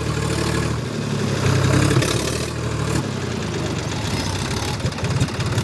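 Tractor diesel engine running. It is louder for the first three seconds, then drops back to a lower, slower run with each firing pulse distinct.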